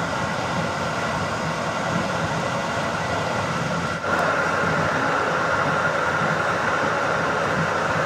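Steady running noise of a PKP Intercity passenger train at speed, heard from inside the carriage. About halfway it dips for an instant and comes back slightly louder, with a stronger hum in the middle range.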